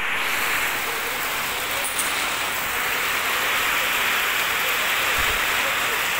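Heavy rain falling steadily on wet ground and puddles: an even, unbroken hiss.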